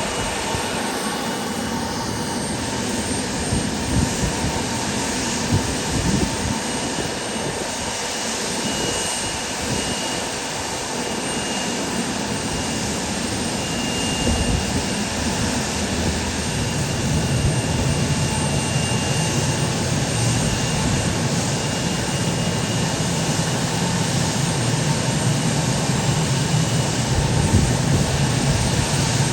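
Airliner engines running at an airport, a steady engine noise; a low hum grows stronger about sixteen seconds in.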